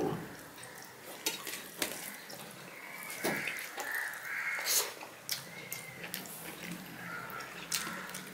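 Close-miked wet chewing and lip-smacking from eating rice and vegetable curry by hand, with sharp clicks and smacks throughout and fingers working the food on a steel plate.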